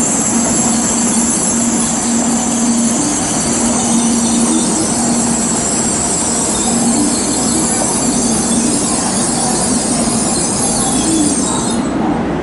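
Shinkansen bullet train at the platform: a steady loud hiss with an on-and-off low hum, the high part of the hiss dropping away near the end.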